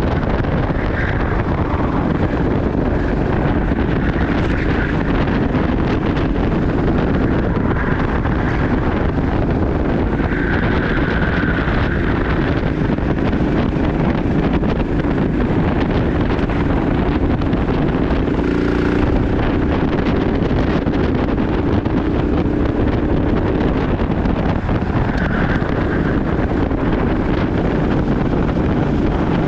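Kart engine running on track, with wind buffeting the microphone; the din stays steady and loud throughout.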